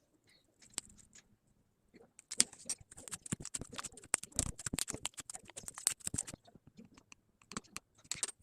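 Slime being pressed and squished by hand, giving a quick run of small crackling clicks for about four seconds, with a few scattered clicks before and after.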